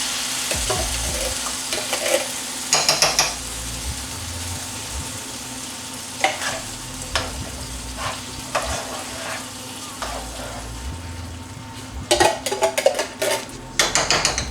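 Crushed tomatoes going into a hot pot of cooking vegetables, sizzling at first and then settling. A utensil scrapes and clinks against the pot as the sauce is stirred, with a quick run of clinks near the end.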